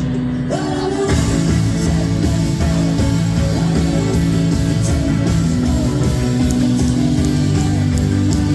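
Live rock band playing a song, with electric guitar prominent over bass and drums.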